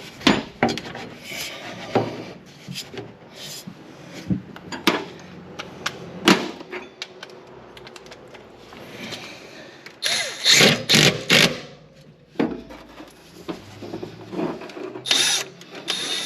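Scattered clicks and clanks of hand tools and metal parts being fitted during a turbocharger install, with short runs of rapid tool clicking about ten seconds in and again near the end.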